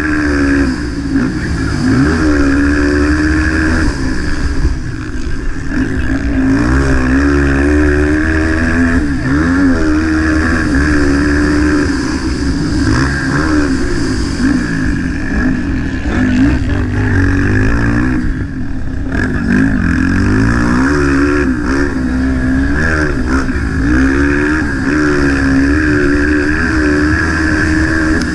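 A 230 cc motocross bike engine racing, its pitch climbing and dropping again and again as the throttle is opened and closed through the gears.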